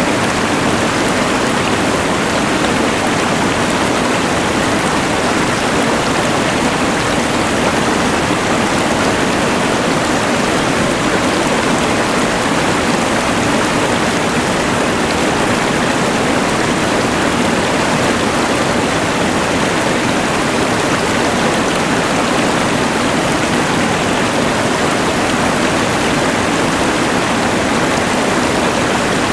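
Rushing mountain river mixed with the steady hiss of a LectroFan white noise machine, a dense, unchanging wash of water noise.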